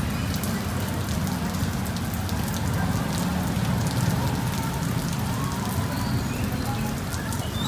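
Steady rain, a dense patter of drops, over a continuous low rumble.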